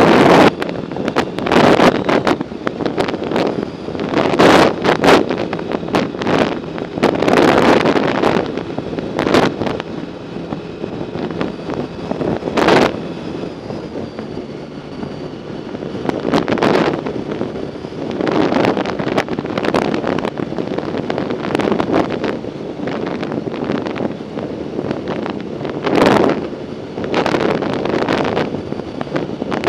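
Wind buffeting the microphone of a camera carried on a moving bicycle, in loud, uneven gusts that surge every second or two.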